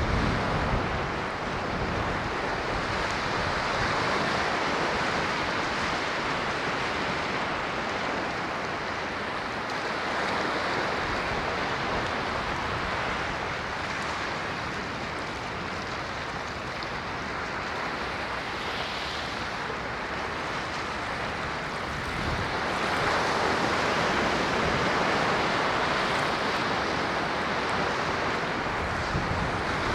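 Ocean waves breaking and washing on a shore, a continuous surging hiss that swells and ebbs as each wave comes in, with a larger surge about three-quarters of the way through.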